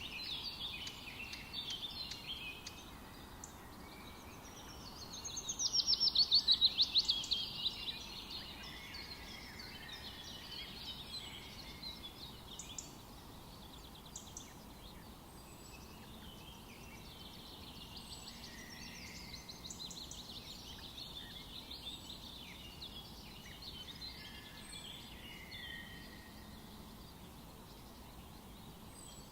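Several forest birds singing and calling over each other, with a loud, fast trill from about five seconds in that lasts a few seconds.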